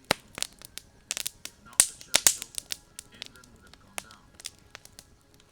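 Wood campfire crackling, with irregular sharp pops and snaps from the burning wood, the loudest a couple of seconds in.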